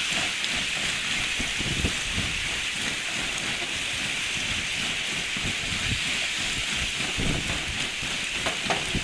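Lake ice shove pushing ashore: broken pieces of ice grinding and jostling over one another, a steady crackling hiss with scattered small knocks.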